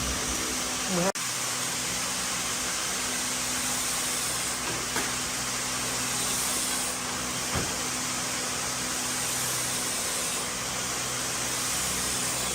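Steady machine noise, an even hiss over a low hum, with a sharp click about a second in.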